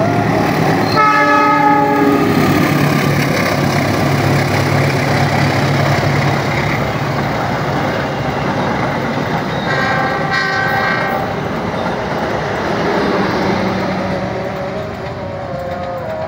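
Passing locomotive-hauled passenger train: steady wheel rumble and clatter with the diesel locomotive's engine, and two blasts of a train horn, a longer one about a second in and a shorter one about ten seconds in.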